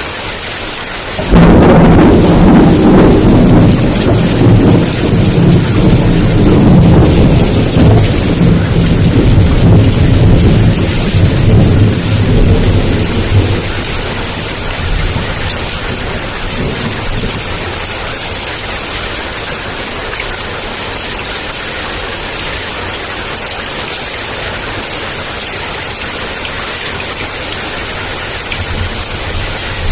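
Heavy rain falling steadily. About a second in, a sudden loud thunderclap breaks in and rumbles for about twelve seconds, then fades back to the rain alone.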